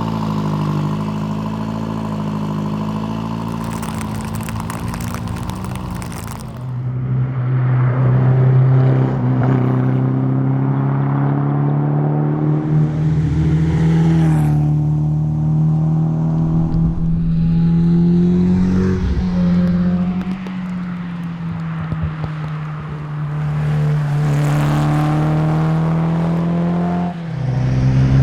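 Renault Alpine A110's engine driven hard, its note holding and climbing through the revs and dropping back several times with gear changes and lifts, including a sharp drop near the end.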